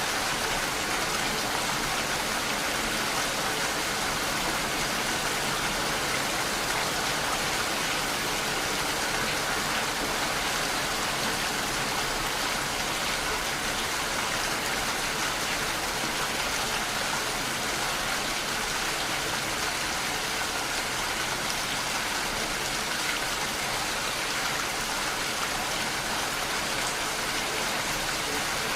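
Steady rainfall, a dense even hiss of drops with no let-up.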